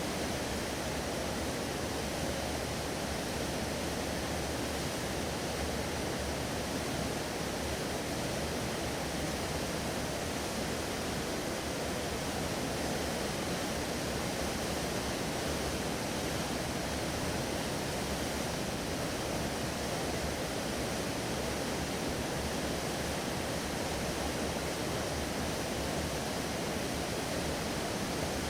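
Steady rushing wash of water from a ship moving through the water, an even noise with no separate splashes or changes.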